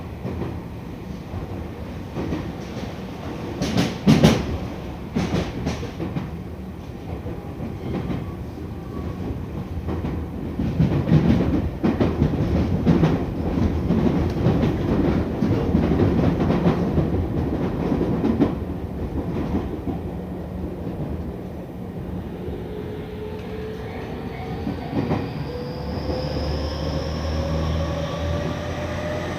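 Tokyu 5000 series electric train running, heard inside the car: wheels clattering over rail joints with the steady running noise of the bogies. From about two-thirds of the way in, the traction motors' whine rises in pitch as the train gains speed.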